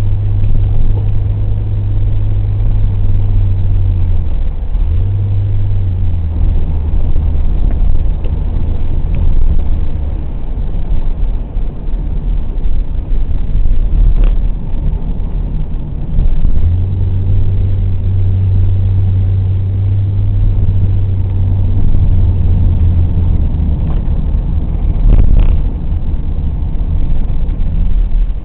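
Car engine running on the move: a steady low drone whose pitch and strength shift a few times as the car changes speed.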